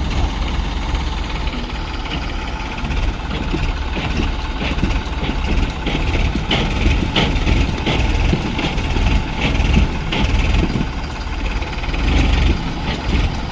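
Tractor engine running with a steady low rumble, with scattered short sharper sounds through the middle.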